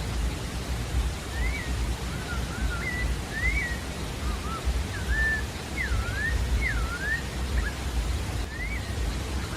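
Pale-breasted thrush singing a string of short, clear whistled phrases, each sliding up and down in pitch, starting about a second in and running to near the end. Under it lies a steady hiss and low rumble.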